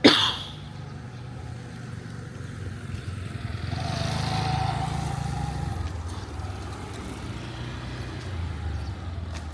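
Street traffic: a sharp knock at the very start, then the steady low rumble of engines, with a vehicle passing close by and louder for a couple of seconds around four to six seconds in.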